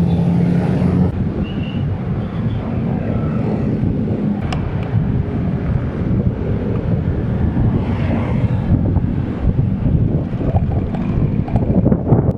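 Wind buffeting the microphone while riding, over the steady rumble of road traffic.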